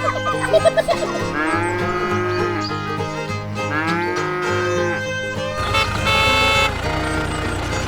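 Cow mooing twice, each moo a drawn-out call about a second long that rises then falls in pitch, over background music.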